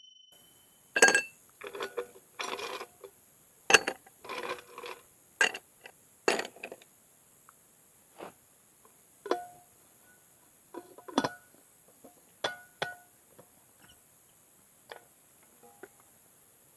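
Irregular sharp clinks and knocks of glassware and ice being handled, a dozen or so, some with a short ring, the loudest about one and four seconds in.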